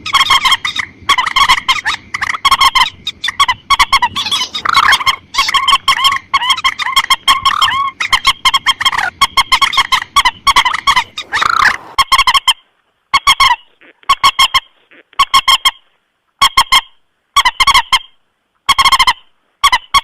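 Recorded calls of a mandar sawah, a rail, played as a bird lure: loud nasal calls repeated in a rapid run for the first twelve seconds, then in short bouts with silent gaps between them.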